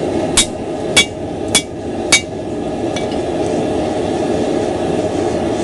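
Hand hammer striking hot axe steel on the anvil: four ringing blows about half a second apart, a faint fifth, then the hammering stops. A steady rushing roar of the lit forge runs underneath.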